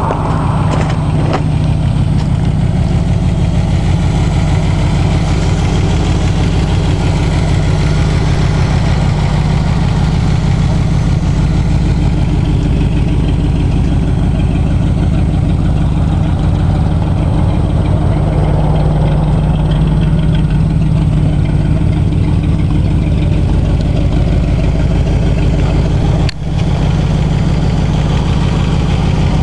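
1957 Cadillac Coupe de Ville's 365 cubic-inch V8 idling steadily.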